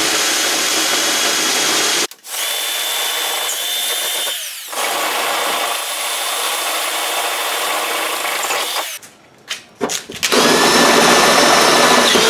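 Small cordless drill running under load, enlarging pilot holes in a vehicle's steel body panel. It runs in four spells, stopping briefly about 2 seconds in, again about 4½ seconds in, and with a couple of short trigger blips around 9 seconds in before a final run.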